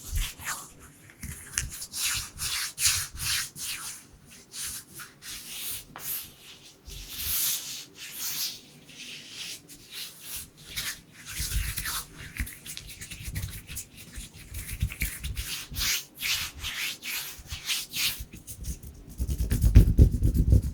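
Bare hands rubbing together close to the microphone in quick, repeated strokes. Near the end the strokes grow louder and fuller.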